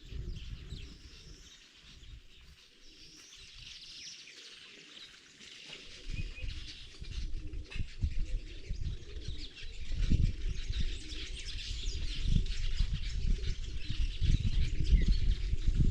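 Birds chirping steadily in the background. A low rumbling noise comes in about six seconds in and grows louder after ten seconds.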